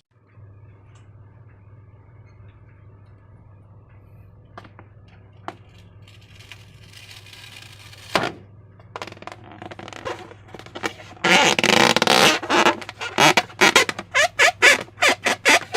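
Slime being squished and worked by hand, with wet squelching and crackling. It is quiet at first with a few small clicks, then from about two-thirds of the way in it becomes a loud, fast run of crackles.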